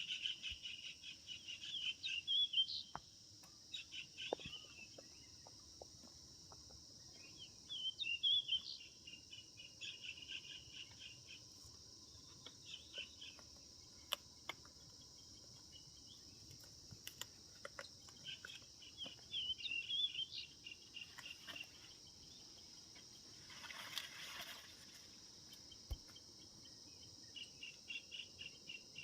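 Birds, most likely the ringneck parrots, giving bouts of rapid high chirping chatter every few seconds, over a steady high-pitched insect drone, with a few scattered clicks.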